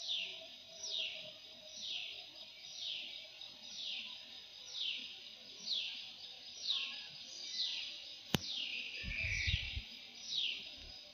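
A bird calling over and over with a high, downward-slurred note, a little more than once a second. A single sharp click comes about eight seconds in, followed by a brief low rumble.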